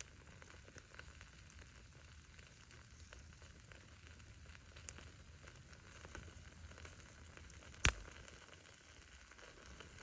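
Wood bonfire burning: a steady low rush of flame with faint crackling throughout, a small pop about five seconds in and one sharp, loud pop of bursting firewood near the end.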